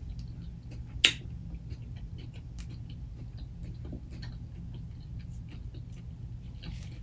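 Close-miked chewing and lip smacking from a person eating a mouthful of food: a run of small wet mouth clicks, with one loud smack about a second in.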